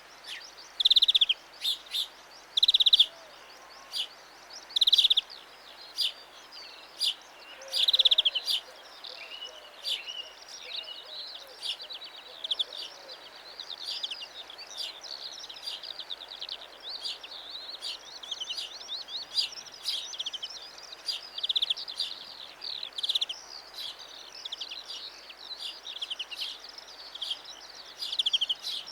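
European greenfinch singing: several loud, separate trilled phrases in the first few seconds, then a near-continuous run of twittering trills.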